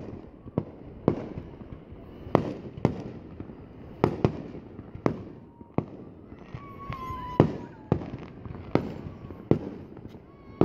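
Aerial firework shells bursting in a steady series, about a dozen sharp bangs spaced half a second to a second apart, each trailing off briefly.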